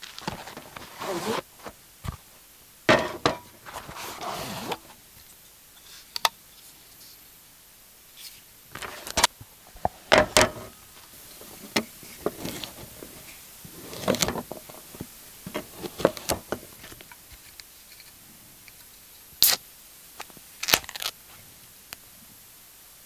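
Camp-kitchen handling: a string of irregular knocks, clinks and crinkling as cooking gear and food packaging are handled.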